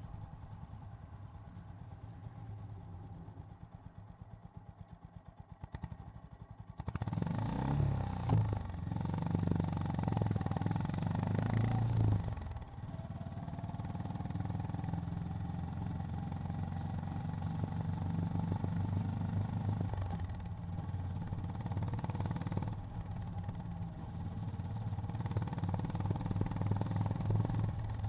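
Honda GB350's air-cooled single-cylinder engine idling with an even, slow thump for about seven seconds. It then revs up as the bike pulls away and accelerates, with a brief drop in the sound about twelve seconds in, and settles into a steady cruise.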